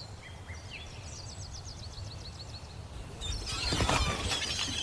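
Bird calls over a quiet outdoor background: a rapid, high trill and a few short chirps, then a denser, louder bout of chirping starting about three seconds in.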